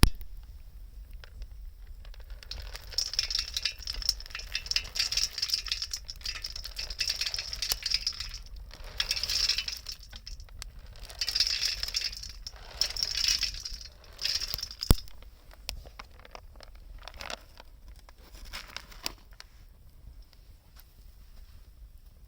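Wood fire crackling, with dense bursts of crackle and hiss that come and go for several seconds, a single sharp pop about 15 s in, then sparser crackling.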